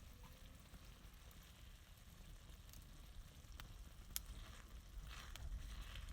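Faint sizzling, with a few sharp clicks and short bursts of noise near the end.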